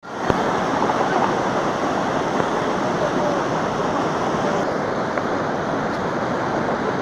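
Steady rushing road and wind noise picked up by a dash-cam microphone in a moving vehicle, starting abruptly.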